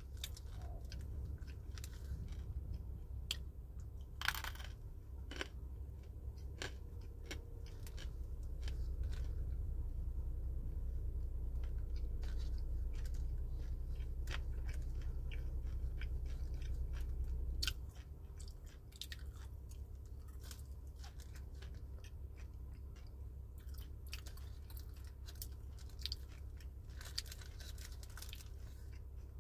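A person chewing crunchy dried fruit, with sharp crunches scattered throughout. Underneath is a low steady rumble that grows louder about eight seconds in and drops off suddenly about halfway through.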